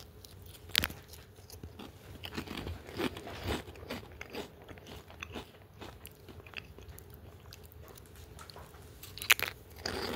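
Chewing a crispy fried wonton right at the microphone: irregular crunches as it is bitten and chewed, with sharp crunches about a second in and again near the end.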